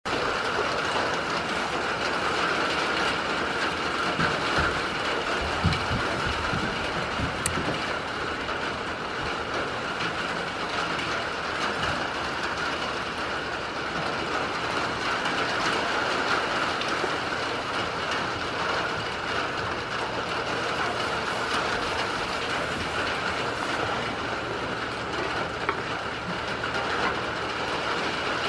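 Steady rain falling without a break, heard from inside a wooden shed.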